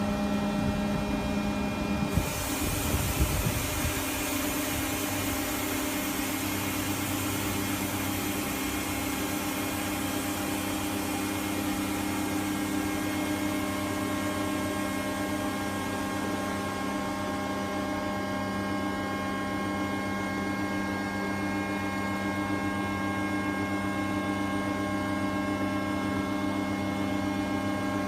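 AWEA LP-4025YZ CNC double-column machining center running with a steady electric machine hum. A rushing hiss comes in sharply about two seconds in, with a couple of small knocks, and thins out after about seventeen seconds.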